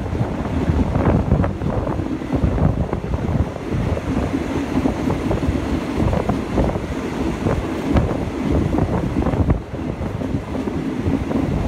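Passenger train running along the track, heard from an open carriage window: a steady din of wheels and carriage with many small rattles and clicks, and wind buffeting the microphone.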